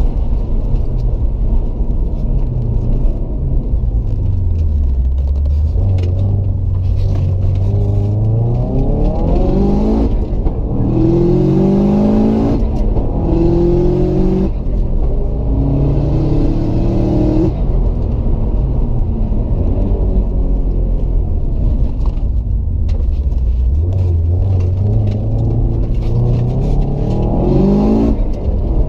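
Subaru Impreza WRX STI's turbocharged flat-four engine heard from inside the cabin under hard acceleration, pitch climbing and dropping sharply at each quick upshift several times through the middle. It then eases off and falls for a few seconds before pulling up again near the end, over steady road and tyre noise.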